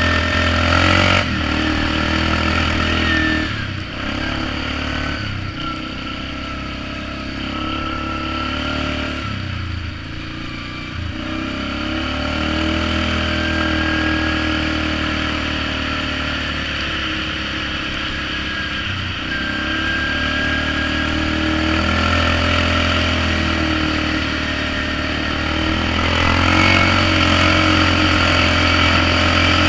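Polaris Magnum 425 ATV's single-cylinder four-stroke engine running through a DG Performance RCM-II aftermarket muffler while riding. The throttle comes on and off, with several brief drops in engine note, and the engine pulls louder near the end.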